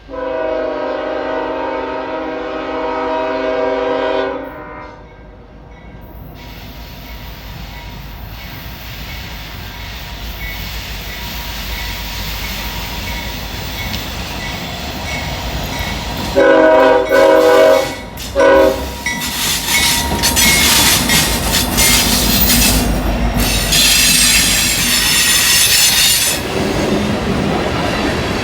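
Freight diesel locomotive horn: one long blast, then two more blasts and a short one about 16 seconds in, as the train closes in. The lead locomotives then pass and a train of empty ethanol tank cars rolls by, with wheels squealing high-pitched and clattering over the rail joints.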